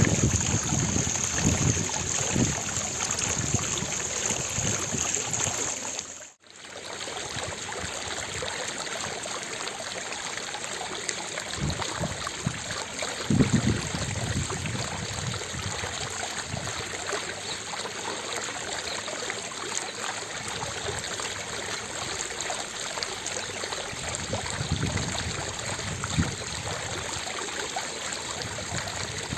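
Fountain water splashing steadily into its basin, an even rushing noise. The sound cuts out for a moment about six seconds in and resumes, and low gusts of wind rumble on the microphone now and then.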